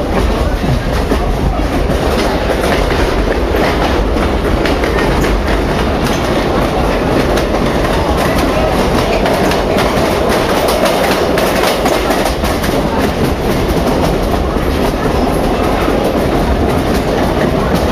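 Running noise of a moving passenger train heard from inside the car: a steady rumble of the wheels on the track, with rapid clicking as they pass over the rail joints.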